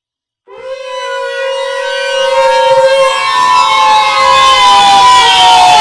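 Diesel locomotive horn, the 2TE11M's, blowing one long, loud blast that starts about half a second in, its chord of tones sliding slowly down in pitch.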